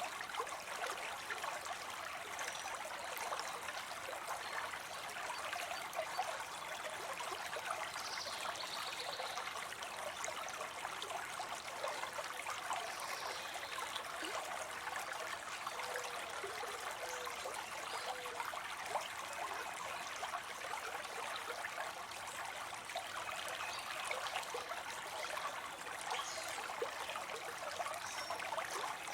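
Water spilling into a pond: a steady splashing trickle with many small drips and splashes.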